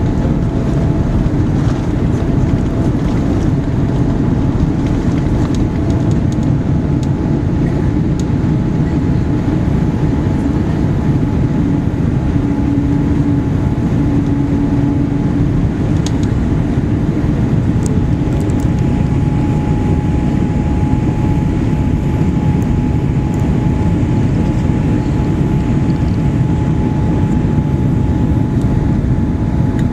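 Boeing 787-8 Dreamliner's GEnx jet engines running: a loud, steady rumble with a faint steady whine over it.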